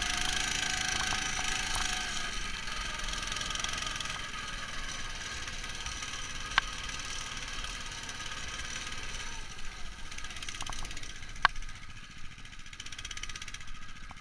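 Neva MS-1 walk-behind tractor's engine running steadily, muffled by the camera's protective case. The engine grows fainter over the second half, and two sharp clicks stand out, one about midway and one near the end.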